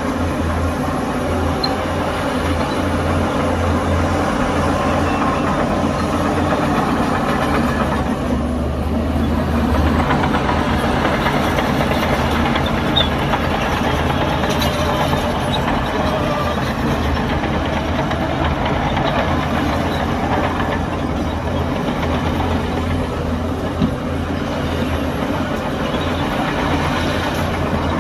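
Heavy diesel earthmoving machinery running steadily with a deep rumble that shifts in strength now and then, and a couple of brief knocks.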